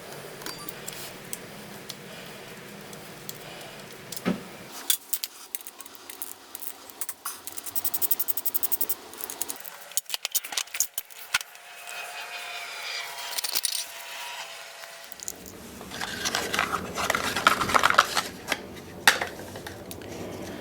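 Hand tools and small metal parts clinking, jangling and scraping in a string of short sharp clicks and rattles, as work goes on during a dirt bike oil change. The background changes abruptly a few times.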